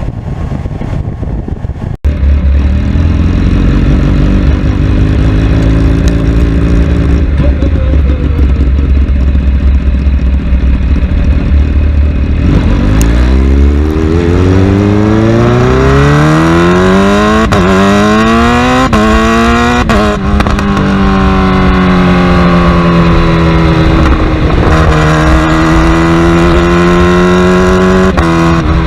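Superbike engine running hard at high revs, a steady loud drone at first. About 13 s in it pulls through several gears: the pitch climbs and drops back at each upshift, then holds high near the end.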